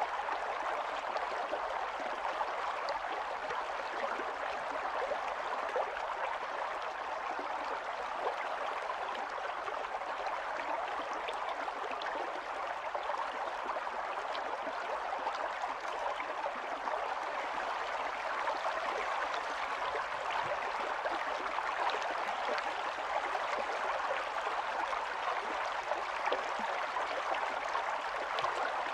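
Shallow stream of running water, burbling steadily.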